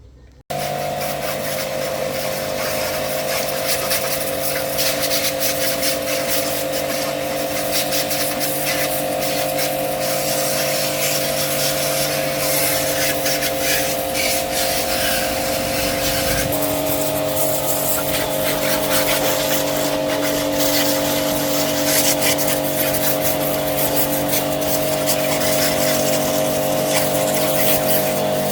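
Motorcycle engine running at a steady pace under a heavy, even rushing noise that starts abruptly. Its pitch steps up slightly about halfway through.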